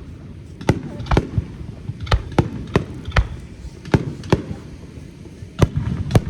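Fireworks bursting overhead: about ten sharp bangs at uneven spacing over a low rumble of echoing reports.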